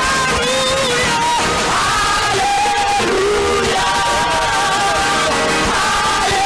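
Choir singing a worship song, several voices holding long notes together over music, with a new phrase every second or two.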